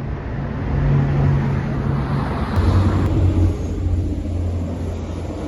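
A motor vehicle going by, its engine hum and road noise swelling over the first three seconds or so and then easing off.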